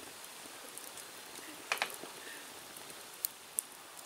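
Wood campfire crackling: a few sharp pops, the loudest pair nearly two seconds in, over a faint steady hiss.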